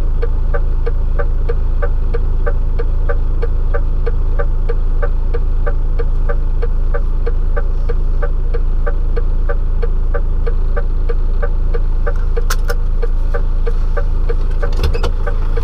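DAF truck's diesel engine running at idle with a steady low hum, overlaid by a regular ticking about three to four times a second; a couple of sharper clicks come near the end.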